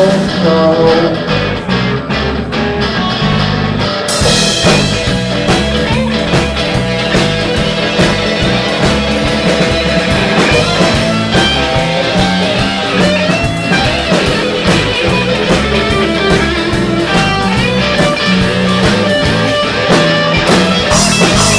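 Live blues band playing an instrumental break with guitar to the fore, over a steady bass line; the sound fills out in the highs, with cymbals, about four seconds in.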